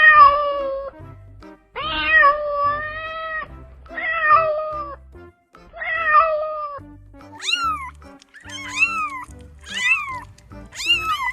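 Domestic cat meowing repeatedly: four long, drawn-out meows, then from about seven seconds in, four shorter, higher-pitched meows that rise and fall in pitch.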